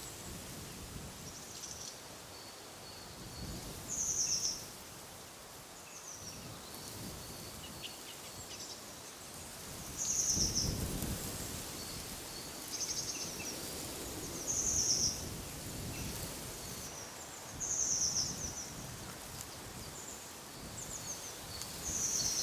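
A small bird repeating short, high calls every two to three seconds, over wind that gusts low, most strongly about ten seconds in.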